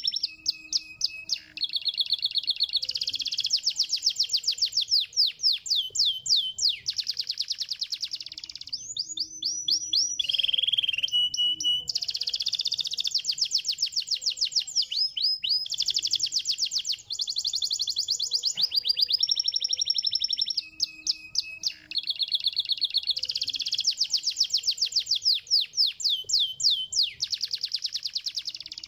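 Domestic canary singing a long song of rapid trills, each a fast run of the same high note repeated, phrase after phrase with short pauses between.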